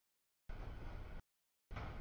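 Freight train cars rolling past a grade crossing: a steady rumble of wheel and rail noise. It is heard in two chopped bursts, one from about half a second in and one near the end, with the audio cutting out to dead silence between them.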